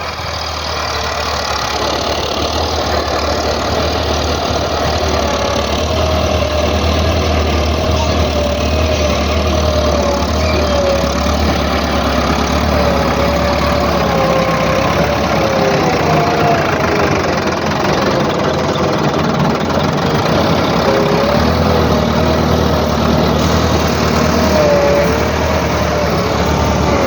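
Tractor loader's diesel engine running steadily, with a wavering higher-pitched tone over its low drone. The drone eases off about two-thirds of the way through and then comes back.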